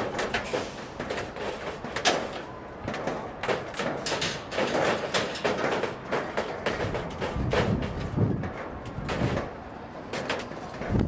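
Irregular knocks, scrapes and clatter of sheet metal being handled and fitted around a chimney.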